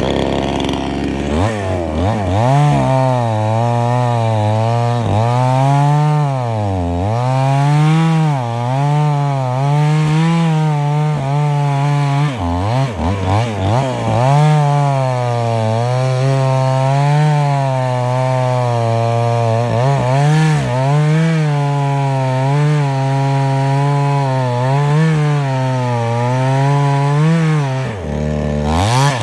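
Chainsaw running at high speed while cutting wood. Its engine pitch sags and recovers again and again as the chain bites in, with a few deeper dips under heavier load.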